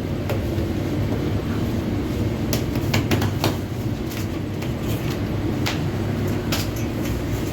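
Bakery machinery of a mechanized lavash production line running, a steady low rumble with irregular sharp clicks and knocks through it.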